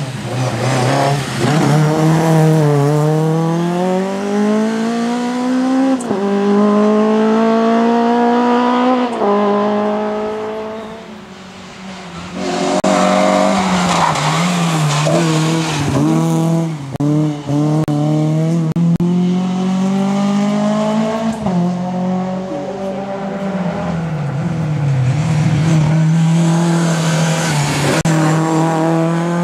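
Rally car at full throttle on a sprint stage: the engine revs climb in pitch through each gear and drop back at every shift, over and over. There is a brief quieter dip about eleven seconds in.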